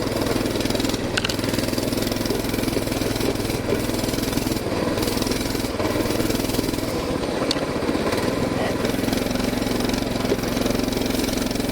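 Coleman BT200X mini bike's single-cylinder four-stroke engine running steadily under throttle while being ridden.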